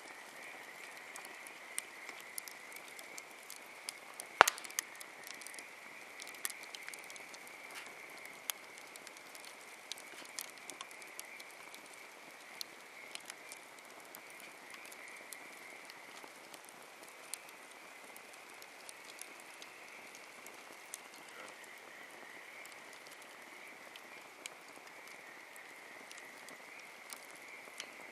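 Wood campfire crackling, with scattered sharp snaps and one loud pop about four seconds in, over a steady high-pitched animal chorus.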